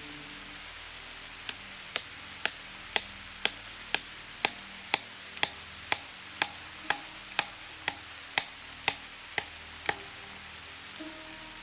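A hand tool striking wood in a steady rhythm, sharp knocks about two a second that start a second and a half in and stop near the end, over a steady hiss.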